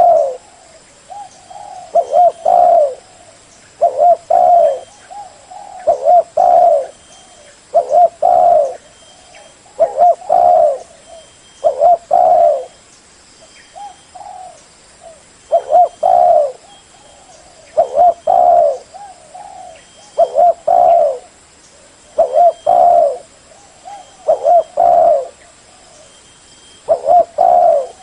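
Spotted dove cooing: a loud phrase of a few short, low coo notes, repeated roughly every two seconds.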